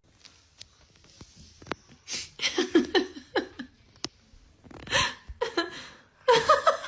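Short bursts of people's voices, brief cries or exclamations, between quieter stretches with a few sharp clicks.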